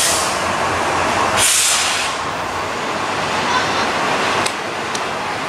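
Train running close by with a steady, loud rumble and rush of noise, broken by two short hisses of air, one at the start and another about a second and a half in.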